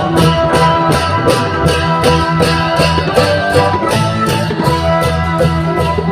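Klong yao long-drum procession band playing: a steady beat of cymbal and drum strikes, about three a second, under a sustained melody.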